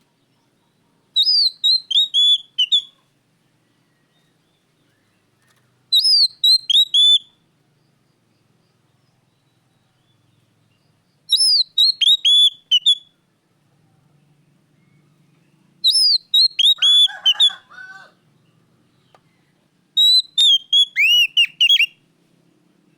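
Oriental magpie-robin (kacer) singing: five loud phrases of high whistled notes, each note sliding downward, every phrase about a second and a half long and repeated every four to five seconds. The fourth phrase carries an added lower, rougher note.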